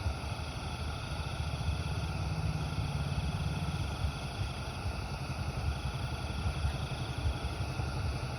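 Anchor 500 CP kerosene pressure lantern burning, its pressurised burner giving a steady hissing roar with a fluttering low rumble.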